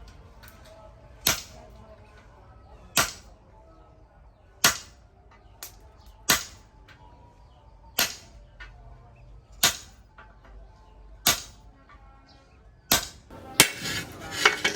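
Hammer blows on the steel of a plough disc, struck at a slow steady pace about every second and a half, each a sharp ringing clang; near the end the blows come quicker with some extra clatter.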